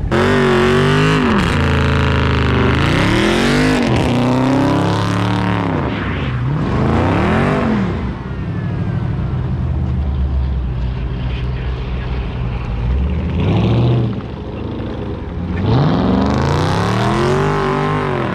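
Muscle car engine revved hard several times, its pitch climbing and falling in repeated sweeps, as the car builds up to a tyre-spinning burnout.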